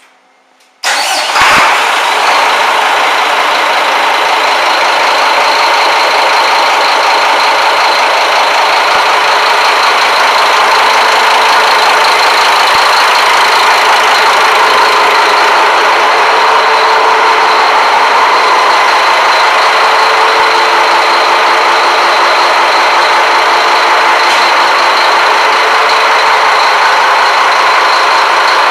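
Scania marine diesel engine starting about a second in, catching at once and then running loud and steady.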